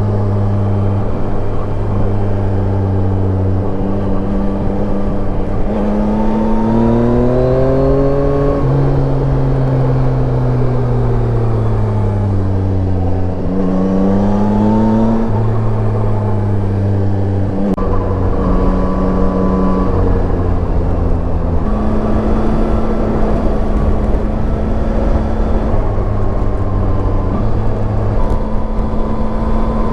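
Yamaha Tracer 9 motorcycle's inline three-cylinder engine running under way, pulling up in revs, easing off in a long fall, then rising again before holding fairly steady, over a rush of wind noise.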